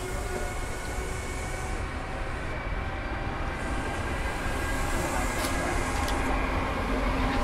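Train running by: a steady rumble with faint, thin steady whining tones, growing slowly louder, with a couple of sharp clicks in the second half.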